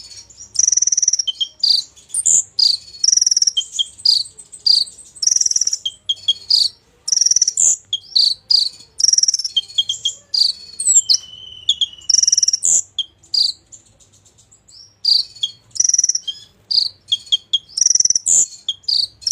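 Olive-backed sunbird (kolibri ninja) singing, in full song: a fast, high-pitched run of buzzy trills and sharp chirps in short phrases, with a brief lull about two-thirds of the way through.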